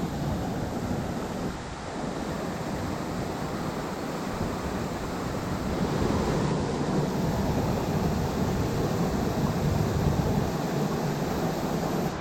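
Steady rush of water falling at a hot-spring waterfall, growing louder about halfway through.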